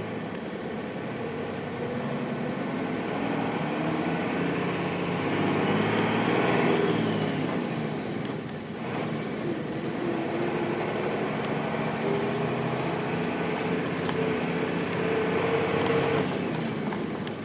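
Nissan Diesel KC-RM211 mid-size bus's FE6 diesel engine, heard from inside the bus, pulling up through the revs under acceleration. It drops back about eight seconds in, as with a gear change on its five-speed manual gearbox, then climbs again and eases off near the end.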